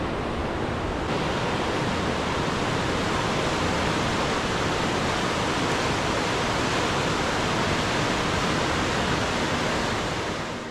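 Steady loud rush of fast-flowing white water from a river in heavy snowmelt runoff, fading slightly near the end.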